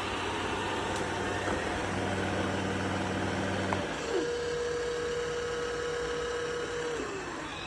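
Robot vacuum's motor running with a steady hum; just before four seconds in the hum gives way to a steady whine that slides down in pitch near the end as the motor winds down.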